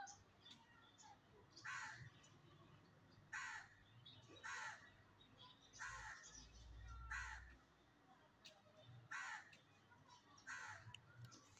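Bird cawing outdoors: about seven short, harsh calls, one every second or two.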